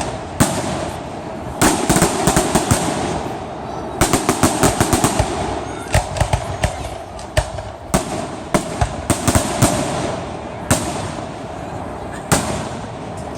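Aerial fireworks bursting: a string of sharp bangs over a steady rumble, with rapid runs of crackling cracks about two, four and nine seconds in.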